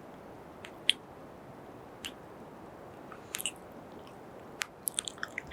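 Close-miked ASMR kiss and wet mouth sounds: short lip smacks and clicks over a faint steady hiss, the loudest about a second in, a few softer ones later and a quick run of them near the end.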